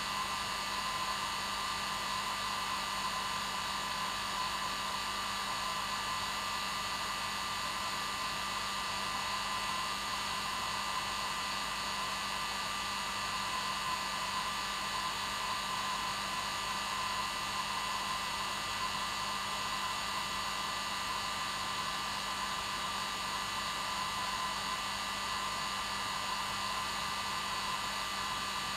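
Hair dryer running continuously at one steady setting, a constant whooshing noise with a steady motor hum and no changes.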